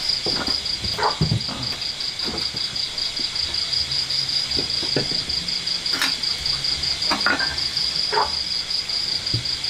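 Insects trilling steadily, a rapid high pulsing that goes on without a break, with a few short knocks and clinks scattered through it.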